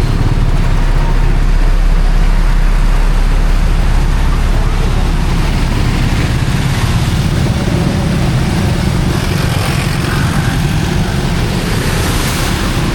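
Busy street noise: a loud, steady low rumble of passing vehicle engines, with a brief rise in hiss near the end.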